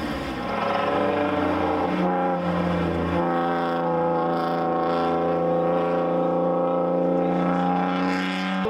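A race car's engine on track, its pitch climbing briefly and then held steady at high revs for several seconds.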